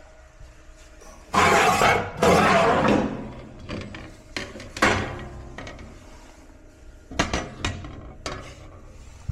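Metal clattering and clinking from work on a metal stovepipe flue: two loud rattling scrapes of about a second each, then a few scattered sharp clinks.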